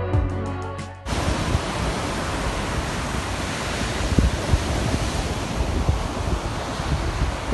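Music cuts off about a second in, giving way to a steady rush of wind and sea surf, with low rumbles of wind on the microphone.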